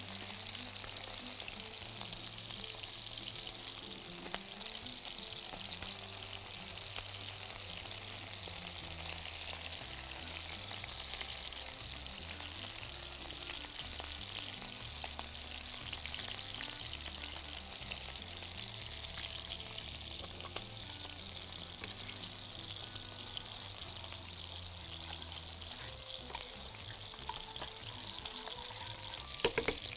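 Chicken breasts and pieces of chicken skin sizzling as they fry in a pan, a steady hiss. Quiet background music plays underneath.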